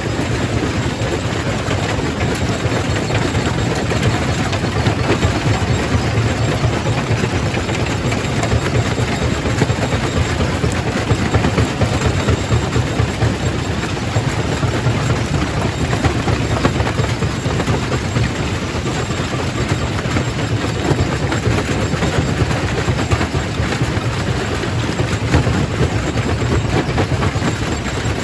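Quarry primary rock crusher running under load: a steady low machine drone with dense, continuous clatter and knocking of stone being broken.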